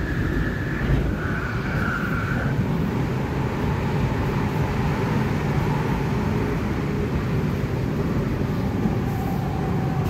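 MTR K-Train electric multiple unit running between stations, heard from inside the car: a steady rumble of wheels on rail, with faint whining tones in the first two seconds or so.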